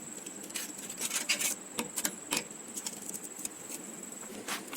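A string of light, irregular clicks and taps, with a faint steady high-pitched tone that stops near the end.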